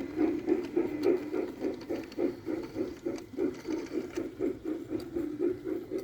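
Model Santa Fe steam locomotive running on a layout with a quick, even rhythmic beat, about four to five pulses a second.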